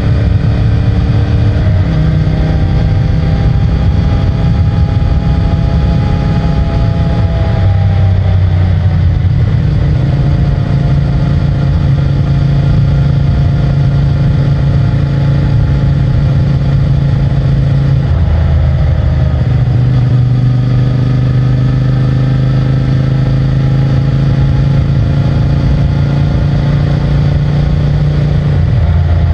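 CFMOTO 450MT's parallel-twin engine and stock exhaust running under way, its engine note rising and falling several times with throttle and gear changes.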